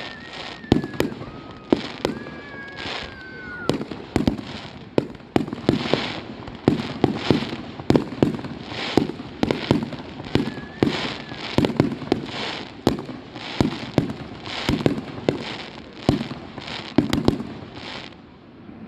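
Fireworks going off in a rapid barrage: loud sharp bangs about one to two a second, with crackling between them. The bangs thin out near the end.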